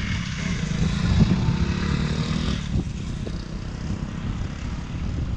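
A motor vehicle's engine running, its pitched sound and hiss fading about halfway through, over a steady low rumble.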